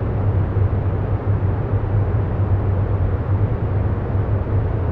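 Steady low rumbling background noise with a strong low hum, unchanging throughout.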